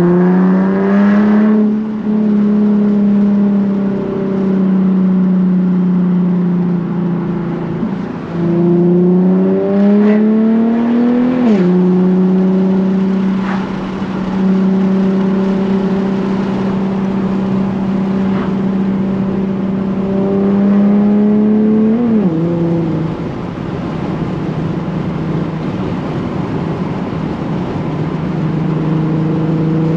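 Nissan 370Z's 3.7-litre V6 through a Tomei titanium catback exhaust, climbing in pitch under acceleration and dropping sharply at gear changes about eleven and twenty-two seconds in, with steady-speed running in between.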